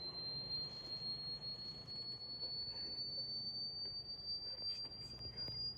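A single high-pitched electronic tone, held steadily and rising slowly in pitch, played as an annoying prank noise.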